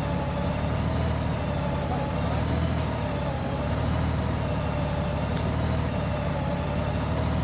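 Motorcycle engine running steadily at an even level, with a faint wavering whine above it.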